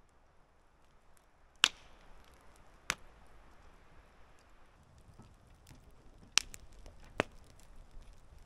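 Four sharp cracks, two a little over a second apart, then two more under a second apart a few seconds later, over faint scattered small clicks.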